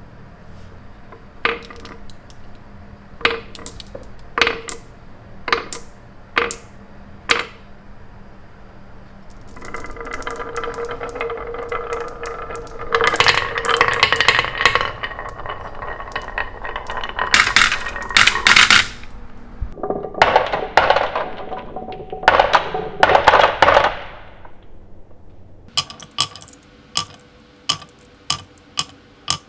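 Glass marbles on a marble run: single clicks spaced about a second apart, then a long stretch of marbles rolling and rattling along the track with ringing clacks, then a quick string of clicks near the end.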